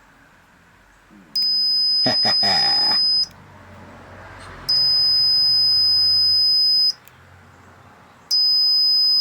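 Cen-Tech P37772 digital multimeter's buzzer sounding three times, each a steady high-pitched beep about two seconds long. The beeps are the sign that the repaired meter's beeper test function works again.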